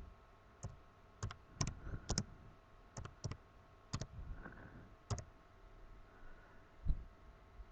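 Computer mouse and keyboard clicks: about a dozen sharp, scattered clicks over several seconds, several in quick pairs, with a low thump near the end.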